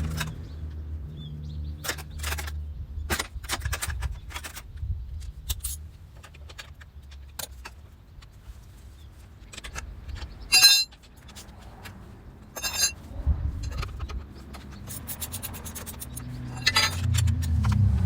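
Metal tools and parts clinking and scraping during hand work on a motorcycle, with one sharp ringing metal strike about ten seconds in. A low vehicle rumble comes and goes underneath, rising near the end.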